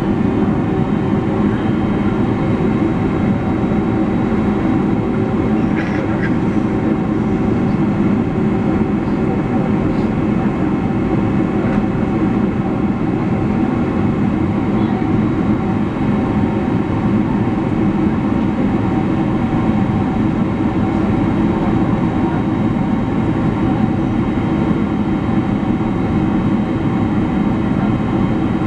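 Steady cabin noise of a Boeing 767-300 in flight on approach: a low rush of engines and airflow with several faint steady engine tones.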